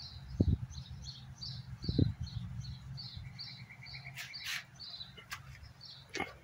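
A small bird chirping over and over, about three short chirps a second, with a quicker, lower trill about three seconds in. Two low thumps, the loudest sounds, come early and about two seconds in, and a few sharp clicks come near the end.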